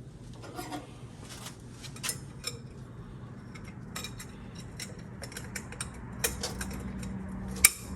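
Metal parts of a TH400 automatic transmission clicking and clinking as they are worked into place by hand. A loud metal clink comes near the end.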